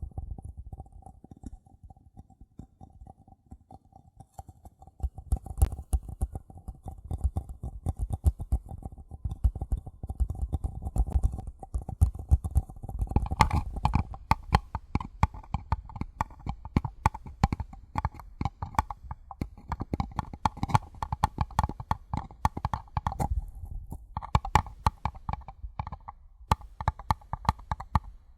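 Rapid, gentle tapping on paper cups, with the cups' hollow ring sounding under the taps. About thirteen seconds in, the ring moves higher and the taps turn brighter, and there is a short lull near the end.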